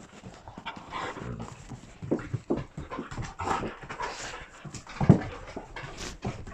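Puppy panting in short, irregular breaths, with one sharp knock about five seconds in.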